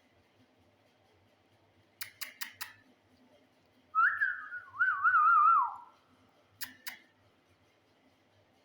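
A parrot whistling one phrase with a wavering trill that drops in pitch at the end. The whistle comes between sharp clicks: a quick run of four before it and two after.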